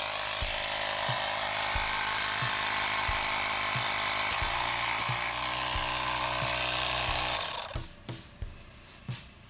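AUTO-VOX 12V portable tire inflator running steadily as it pumps up a car tire at around 30 psi, stopping about three quarters of the way through.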